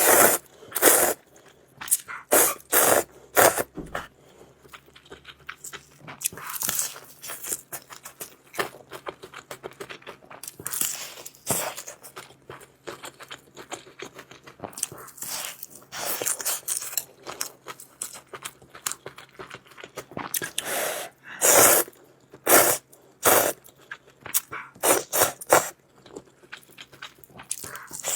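Close-miked eating: a person chewing and crunching a mouthful of noodles and food, in irregular loud bursts with quieter gaps between.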